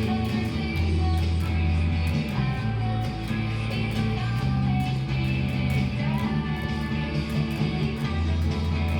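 Guitar-led music: strummed guitar over a bass line, with a steady beat.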